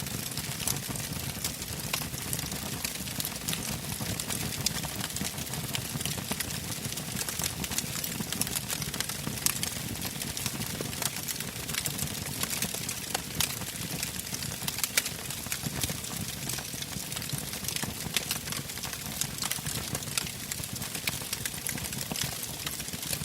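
Wood campfire burning, with frequent sharp crackles and pops of the burning logs over a steady rushing noise.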